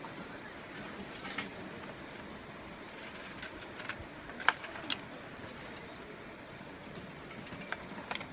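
A few sharp clicks over a steady outdoor hiss, the two loudest close together about halfway through.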